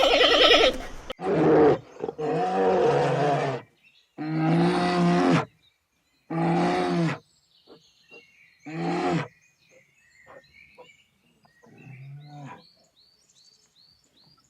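Big cat roaring in a bout: several long, loud roars, then shorter and fainter grunting calls that fade out. Small birds chirp in the background in the second half.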